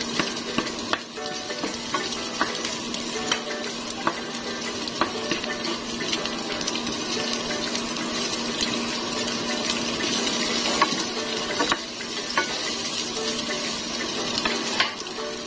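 Chopped onion and garlic sizzling in hot oil in a nonstick frying pan as they are stirred, with the spoon knocking against the pan every second or so.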